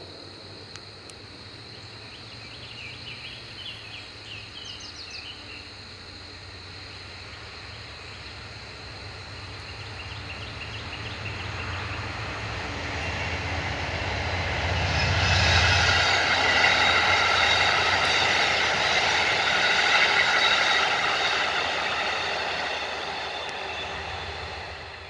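A train passing by on the railway: a low rumble that builds over the first dozen seconds, grows loudest for several seconds as the cars roll past with steady wheel-on-rail noise, then eases off near the end.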